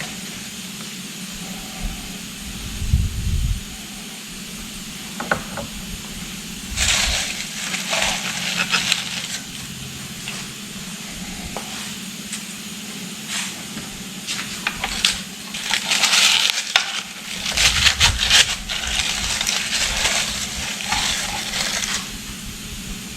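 Scattered metallic clinks and knocks with irregular bursts of hissing, over a steady low hum.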